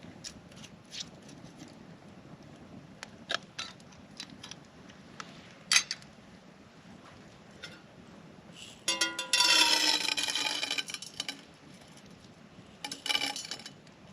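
Metal cookware being handled to make popcorn over a campfire: scattered clinks and taps, then a louder ringing metallic rattle lasting about two seconds from about nine seconds in, and a few more clinks near the end.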